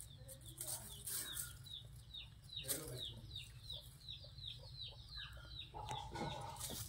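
Chickens: a steady run of short, high, falling cheeps, about three a second, with a short lower call near the end, over a low steady hum.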